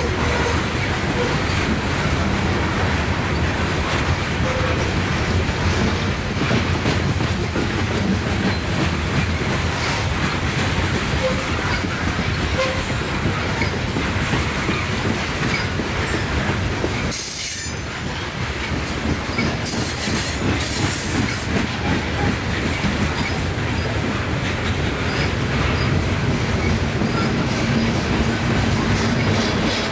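Loaded coal hoppers of a heavy unit coal train rolling past, with steady wheel-on-rail rumble and clickety-clack over the rail joints. Thin, high-pitched wheel squeals come in briefly a little past the middle.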